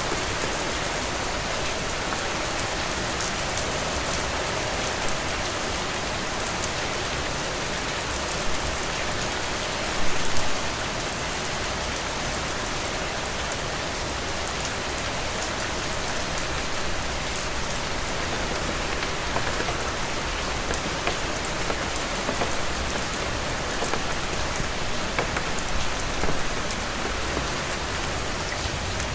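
Heavy rain falling steadily: an even hiss with many close drops ticking, and a brief louder burst of drops about ten seconds in.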